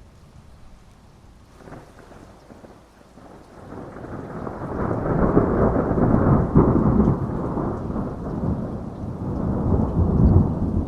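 Thunder rumbling over steady rain: the rain hisses softly at first, then a long, deep rumble of thunder builds from about four seconds in. The rumble stays loud and swells again near the end.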